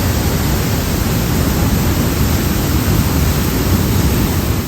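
Loud, steady rush of falling water from the Pailón del Diablo waterfall, heard up close.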